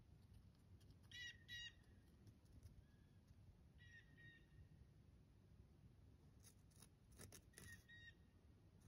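Near silence, with faint short bird calls: a pair about a second in, another around four seconds and one more near the end. A few faint clicks come just before the last call.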